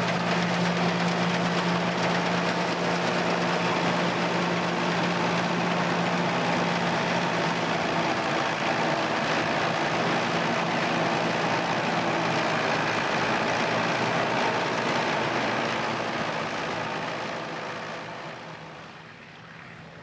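Engine of a vintage farm machine running steadily, then fading away over the last few seconds.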